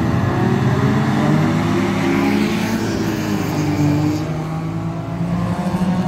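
Volvo 850 rallycross car's five-cylinder engine revving hard under race acceleration, climbing in pitch and dropping back at a gear change twice, about two and a half and four seconds in.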